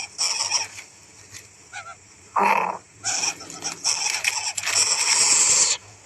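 Greater coucal chick making harsh, wheezing hisses in bursts, a short spell at the start and a longer run of several bursts from about halfway in, with one short lower-pitched cry between them.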